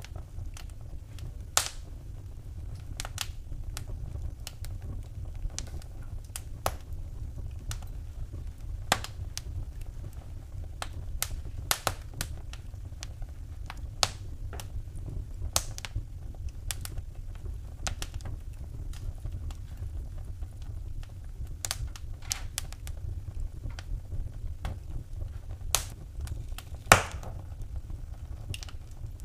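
Wood fire crackling in a fireplace: irregular sharp pops and snaps over a low steady rumble, with one louder pop near the end.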